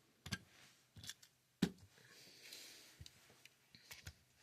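Small die-cast toy cars clicking and knocking as they are handled and set down on a hard surface: several sharp separate clicks, the loudest about a second and a half in, with a faint rustle near the middle.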